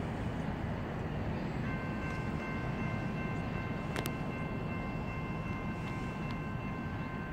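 Distant approaching freight train led by GE Dash 8 diesel locomotives: a steady low rumble. About two seconds in, a faint, steady, high-pitched whine sets in and holds.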